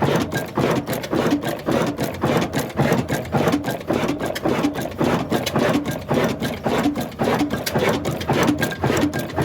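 Old slow-speed stationary diesel 'black engine' running steadily, its firing strokes giving an even, loud beat of a few knocks a second.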